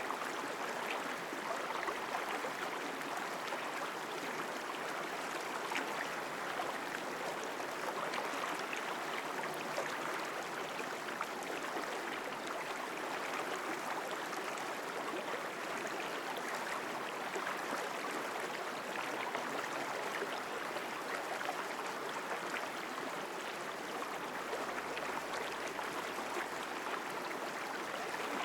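Mountain stream rushing over rocks: a strong, steady flow of water with continuous splashing and gurgling.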